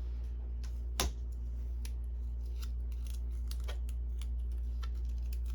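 Scattered small clicks and snips of close-up hand work, with one sharper click about a second in, over a steady low electrical hum.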